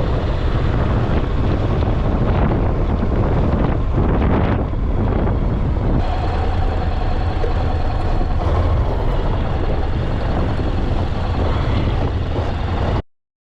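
Motorcycle riding at road speed: steady engine rumble mixed with heavy wind noise. The sound cuts off abruptly near the end.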